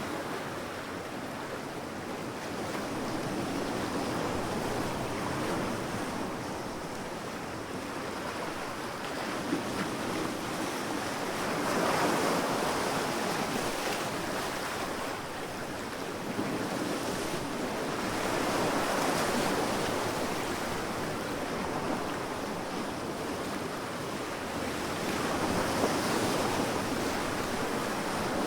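Sea waves washing onto a sandy beach, rising and falling about every seven seconds.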